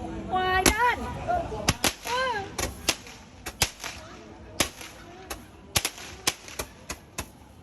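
Firecrackers and small fireworks going off, a dozen or more sharp bangs in quick, irregular succession. A voice is heard briefly near the start.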